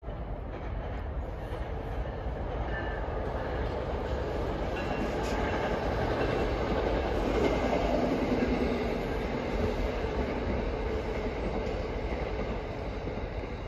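Passenger train crossing a steel girder railway bridge: a steady rumble and clatter of wheels on the rails, swelling to its loudest about halfway through and easing off toward the end.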